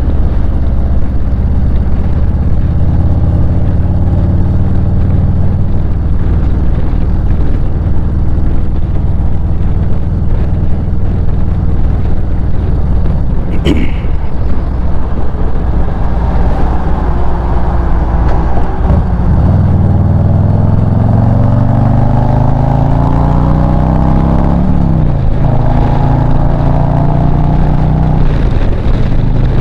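Harley-Davidson Street Glide's stock Milwaukee-Eight 117 V-twin running steadily at speed, then pulling hard about two-thirds of the way in with its pitch climbing, dropping at an upshift, and climbing again, over wind rush at the helmet.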